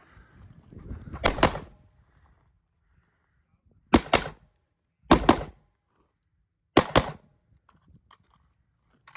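Gunshots fired as double taps: four pairs of quick shots, the two in each pair a fraction of a second apart, the pairs about one to two and a half seconds apart.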